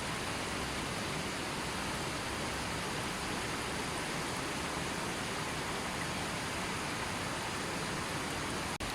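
Gently flowing river: a steady, even rush of running water, with a brief dip in level near the end.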